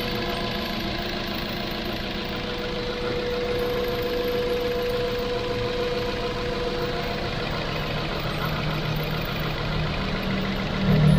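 2007 Ford Focus 1.6 16-valve petrol engine idling steadily at its high idle, a symptom the owner takes for a vacuum leak. Its idle doesn't change as the intake manifold gasket and hoses are sprayed with soapy water. A louder low rumble joins about a second before the end.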